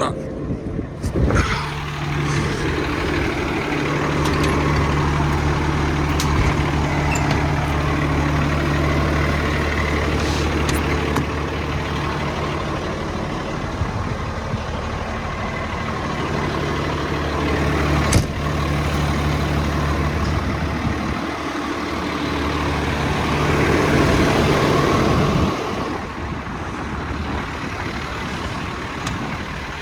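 Kenworth T270's 8.3-litre PACCAR (Cummins-built) diesel engine running steadily at a raised speed, with a sharp clank about eighteen seconds in. The engine note shifts briefly around twenty-one seconds and drops lower near the end.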